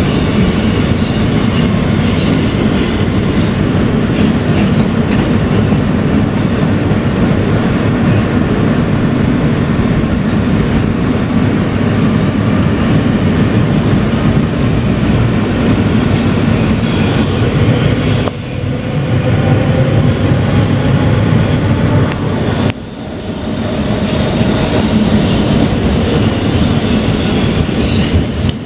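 NYC subway train, a Kawasaki R160B with Siemens AC propulsion, running at speed as heard from inside the car: steady wheel and track noise with some clacking over rail joints. Past the middle the sound drops abruptly twice, and between the drops a faint motor whine rises in pitch.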